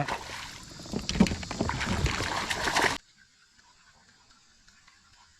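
Splashing water and knocks against a kayak as a freshly hooked fish thrashes beside the boat. It cuts off suddenly about three seconds in, leaving near silence.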